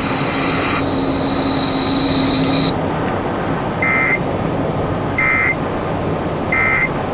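NOAA Weather Radio broadcast over a steady hiss of static. It ends with three short, identical buzzy data bursts about a second apart: the digital end-of-message tones that close a broadcast severe thunderstorm warning.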